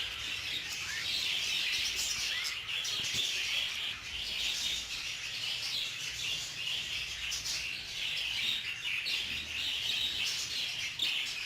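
A flock of budgerigars chattering and chirping continuously, many small overlapping high chirps.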